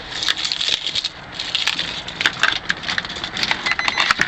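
Rustling and scattered light clicks and rattles from handling, with no engine running yet.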